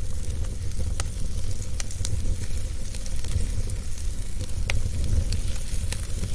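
Wood fire burning in a fireplace: a steady low rumble of flames with a light hiss, broken by about five sharp crackles and pops at irregular moments.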